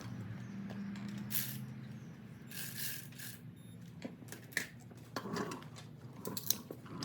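Hand tools working on engine parts during a V8 teardown: scattered metallic clicks and clinks with a couple of short rasping swishes, over a steady low hum. The clicks bunch together near the end.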